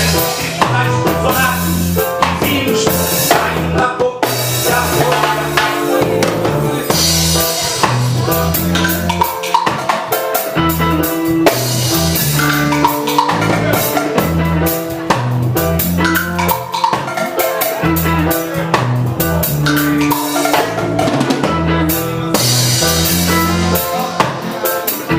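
Reggae band playing an instrumental passage: a drum kit with rimshots, snare and bass drum over a repeating bass line, with no vocals.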